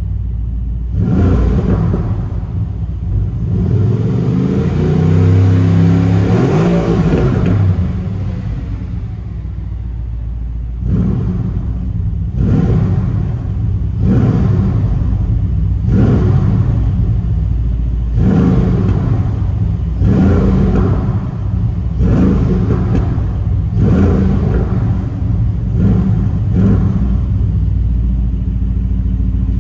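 Mercedes-AMG GT R Pro's twin-turbo V8 revved while parked, heard at the exhaust. It gives one longer rev held for a few seconds near the start and falls back to idle. Then it gives a run of about a dozen quick throttle blips, roughly one a second, settling to idle near the end.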